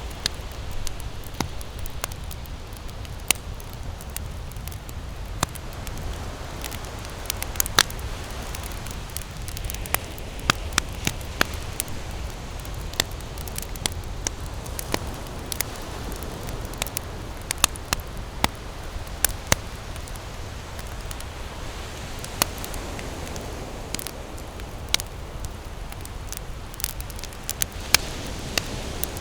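Wood campfire burning and crackling, with frequent irregular sharp pops and snaps over a steady low rumble.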